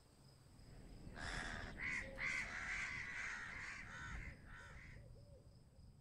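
A bird giving a run of about six harsh, raspy calls, starting about a second in and stopping about a second before the end, over a faint steady high-pitched whine.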